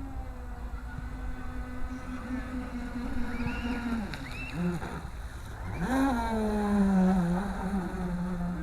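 Radio-controlled speedboat's brushless electric motor running, a steady whine whose pitch drops about four seconds in, jumps up about six seconds in, then slowly falls as the throttle changes.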